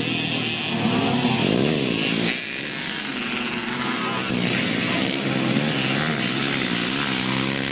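Motocross bike engines revving, several at once, their pitch rising and falling over and over. The sound changes abruptly about two and a half seconds in.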